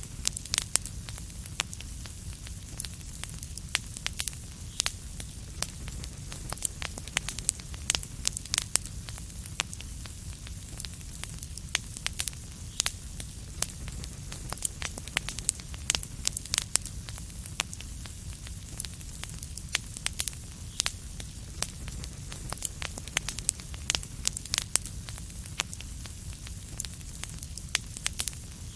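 Wood fire crackling in a fireplace: dense, irregular pops and snaps over a steady low rumble and soft hiss.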